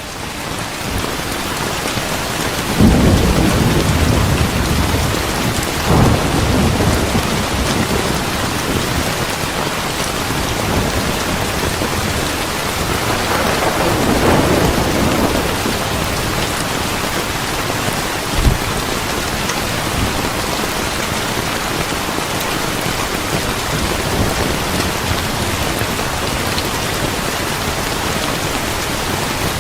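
Steady rain with rolls of thunder. One rumble breaks in sharply about three seconds in, another swells and fades around the middle, and a short low thump comes a few seconds after that.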